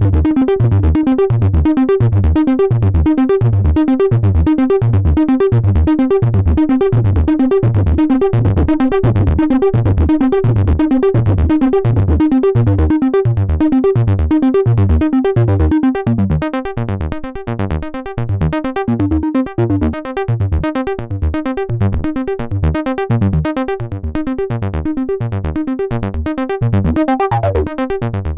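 Behringer System 100 analog modular synthesizer playing a sequenced acid bass line: a fast, even run of repeated bass notes. About halfway through, the notes turn duller and quieter as the filter closes.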